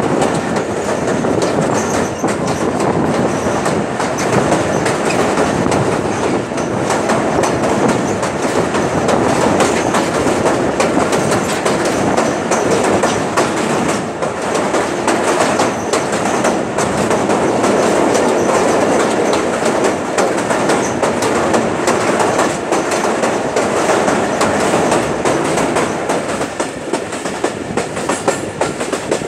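Passenger train running at speed, heard from the open door of a coach: a loud, steady rattle and rumble of wheels on rails with rapid clickety-clack. It is first on a steel truss bridge, then on open track.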